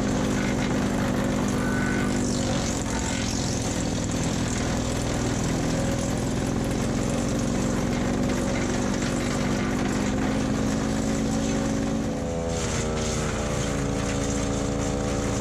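Split-Fire 4090 wood chipper running on its single-cylinder Honda GXV390 gas engine while chipping dry deadwood. About twelve seconds in, the engine note shifts and rises, then holds steady.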